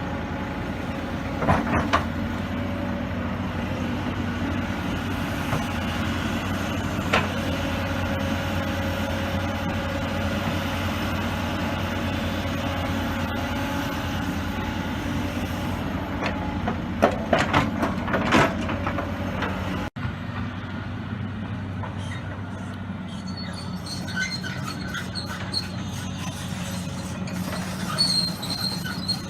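Kobelco 235SR excavator's diesel engine running steadily, with several sharp clanks of metal. After a cut about two-thirds of the way in, high metallic squeals sound over the engine.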